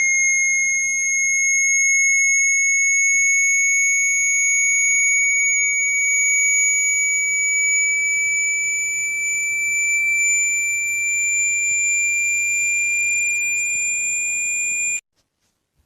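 Synthesized electronic tone of the kind played to shake water out of a phone's speaker: one steady high pitch that glides slowly upward and cuts off abruptly near the end.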